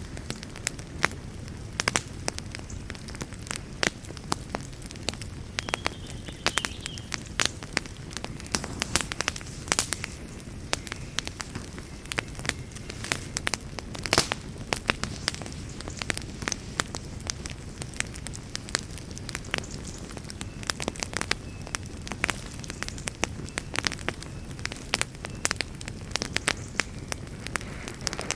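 Campfire burning, its wood crackling and popping in many sharp snaps over a steady low rush of flame.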